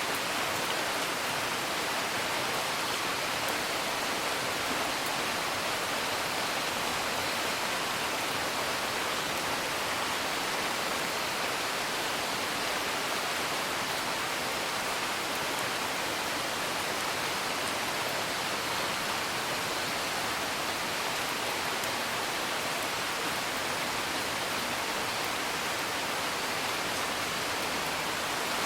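Steady rain, an even hiss, with a few faint crackles of a wood fire.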